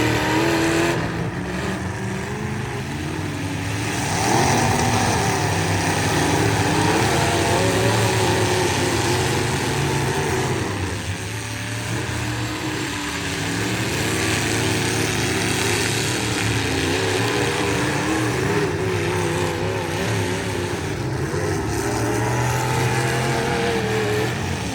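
Engines of several full-size pickup trucks revving hard in a demolition derby, their pitch wavering up and down as the drivers work the throttles.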